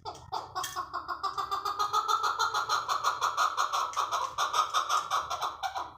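Chukar partridge calling a long, rapid series of repeated clucking 'chuk' notes, about five a second, building in loudness over the first two seconds, then holding steady until it stops near the end.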